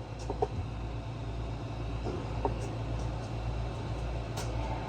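A few faint clicks from small parts and tools being handled, over a steady low hum.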